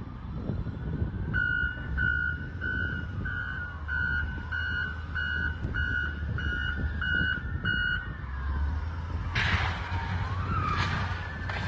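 Road and engine rumble with an electronic beeper sounding about eleven even beeps, a little under two a second, that stop about two-thirds of the way in. A siren glides slowly up and down behind it, and a sudden loud rush of noise breaks in near the end.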